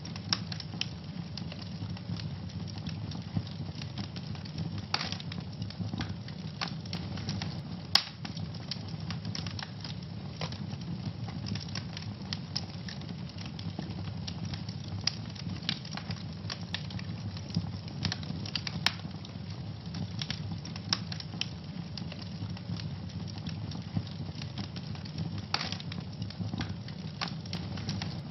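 Wood fire burning in a fireplace with a steady low rumble and frequent irregular crackles and pops, one sharper pop about eight seconds in.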